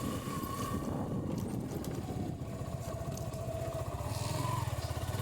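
Motorcycle engine running while being ridden, a steady low pulsing with a faint tone that dips in pitch and rises again.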